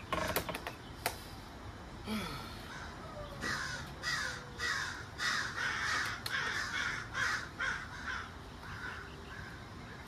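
Birds calling in a quick run of repeated calls, about two to three a second, starting a few seconds in and stopping near the end. A few sharp clicks come in the first second.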